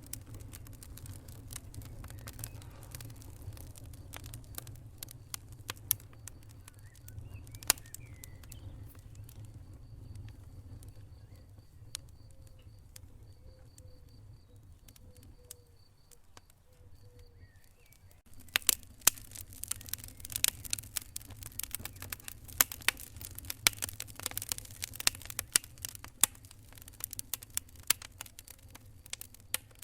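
Wood fire burning in a fireplace, crackling and popping with sharp irregular snaps over a low rumble of flames. The rumble fades a little past halfway, and in the last third the crackling becomes much denser and louder.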